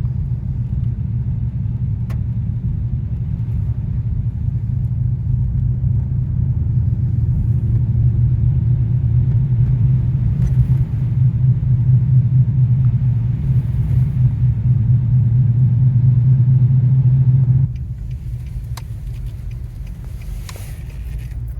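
A car driving on a road, heard from inside: a steady low rumble of engine and tyres that grows gradually louder, then drops suddenly about eighteen seconds in.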